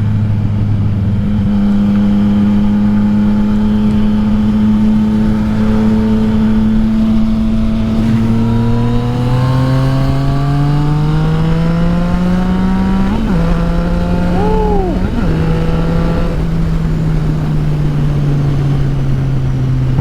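Yamaha XSR900's inline three-cylinder engine through an Akrapovic exhaust without its dB killer, heard from the moving motorcycle. It holds a steady note, then rises in pitch as the bike accelerates from about eight seconds in, shifts gear about thirteen seconds in, and runs steadily with a slowly falling note to the end, with wind rumble underneath.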